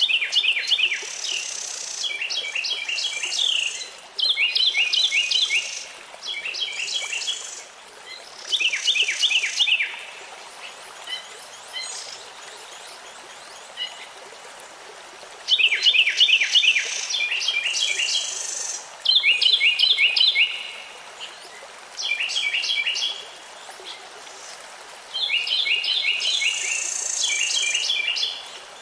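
Songbirds singing: repeated short phrases of quick, high, downward-sweeping notes, each phrase a second or two long, with a quieter pause in the middle.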